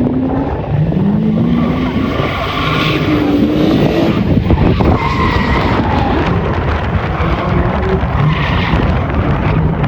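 Ford Escort rally car driving hard on the stage, its engine note climbing through the revs several times with a drop between climbs as it shifts up. Tyre and skid noise runs underneath.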